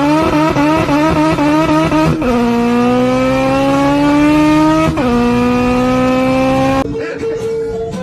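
A car engine at high revs accelerating hard. Its pitch wavers at first, then climbs steadily and drops sharply at gear changes about two and five seconds in. Music starts near the end.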